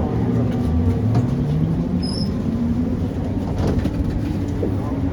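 Tram running on rails, heard from inside the car: a steady low rumble, with the electric traction motor's whine rising in pitch over the first couple of seconds as the tram picks up speed.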